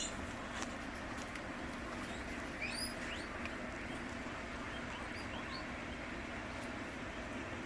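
Guinea pigs giving a few short, high rising squeaks, a cluster about two and a half seconds in and fainter ones after, over the steady whoosh of a swamp cooler and fans.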